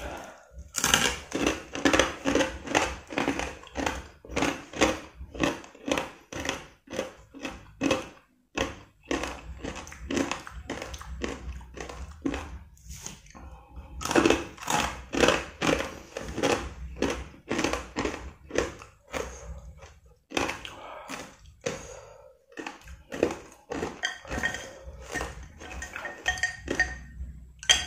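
Close-up crunching of homemade Indonesian rice crackers (kerupuk nasi) being chewed with the mouth near the microphone, about two to three crisp crunches a second with a few brief pauses.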